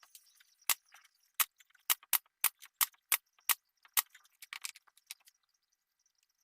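A quick, uneven series of about a dozen sharp clicks or taps over some four and a half seconds, the last few closer together.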